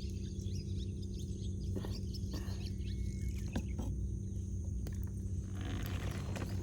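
Wood campfire crackling, with scattered sharp pops, over a steady low hum. Small birds chirp in the background, and a short hiss comes near the end.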